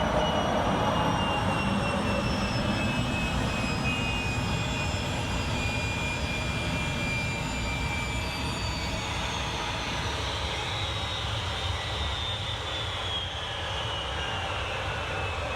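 Rolls-Royce Spey 205 jet engine running on a ground test bed: a steady, dense jet noise with a high whine on top that slowly falls in pitch as the level eases down, the engine winding down from its run.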